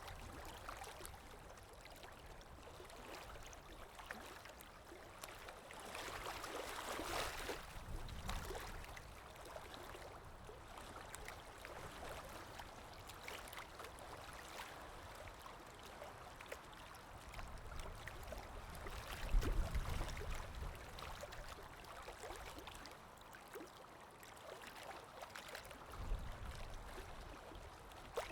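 Gentle river water ambience, a faint steady wash of moving water. A few brief low rumbles break in; the loudest comes about two-thirds of the way through.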